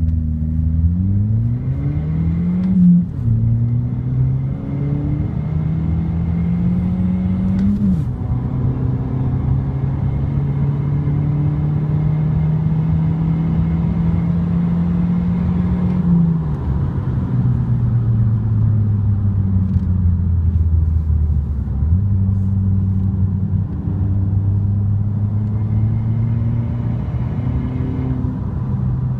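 VW Scirocco 1.4 TSI twincharged four-cylinder engine and exhaust, pulling through the gears: the pitch rises with the revs and drops sharply at gear changes about three and eight seconds in. It then runs steadily, sinks slowly, and steps up again for a steady run near the end.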